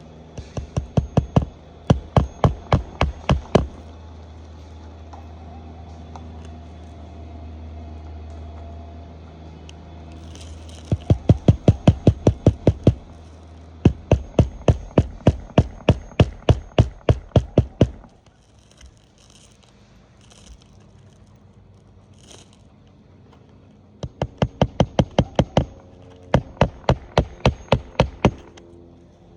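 Hammer driving roofing nails through a replacement shingle: runs of quick, sharp strikes, about three to five a second, in six bursts with short pauses between. A low steady hum sits underneath for roughly the first ten seconds.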